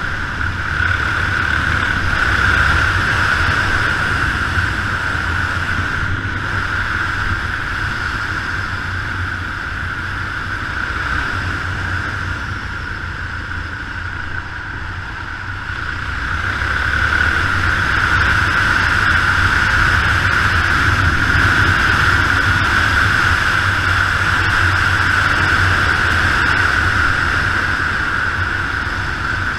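Yamaha XT 600 single-cylinder four-stroke engine running on the move, under a steady rush of wind and road noise. It eases off a little about a third of the way in and picks up again just past halfway.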